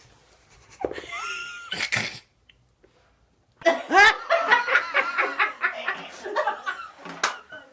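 A person laughing hard in quick, repeated pulses for about four seconds, starting around the middle. Before it, about a second in, comes a short vocal sound rising in pitch.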